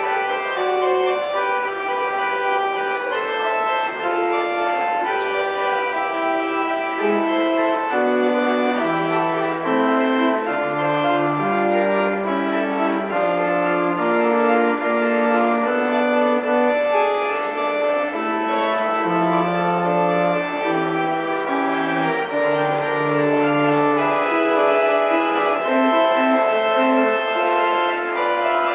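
Organ playing held chords in several voices over a slowly stepping bass line.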